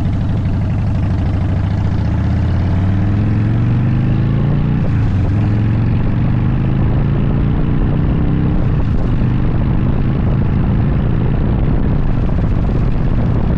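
Harley-Davidson V-twin motorcycle engine running under way. Its note rises over the first few seconds, then holds steady.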